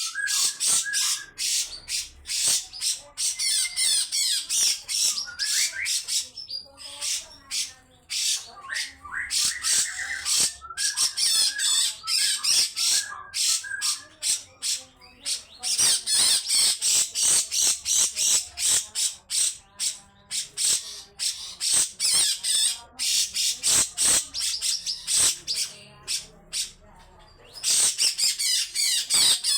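Cucak jenggot (grey-cheeked bulbul) giving long runs of harsh, rasping chattering calls in rapid strokes, with brief lulls about a quarter of the way in and again near the end. This is the coarse, drawn-out call bird keepers play to wake up and provoke other songbirds.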